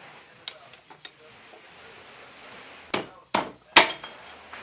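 A few light taps, then three sharp metal strikes about half a second apart, the last ringing briefly: steel being struck during fabrication of an exhaust flange from steel plate.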